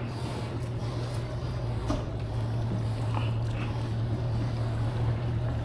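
Motorboat engine running with a steady low hum that swells slightly in the middle.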